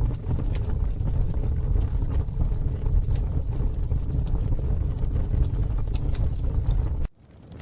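Campfire burning, with scattered sharp crackles and pops over a deep steady rumble. About seven seconds in the rumble cuts off abruptly, leaving only fainter crackling.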